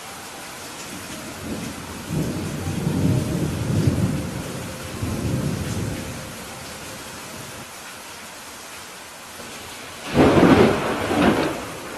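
Steady rain with thunder: a low rumble rolls in about two seconds in and fades after a few seconds, then a louder, sharper clap of thunder comes near the end.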